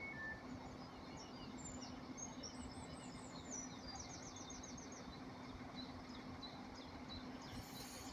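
Birds chirping over steady outdoor background noise and a low steady hum, with a quick run of repeated chirps about four seconds in. An alternating two-tone beep stops just after the start.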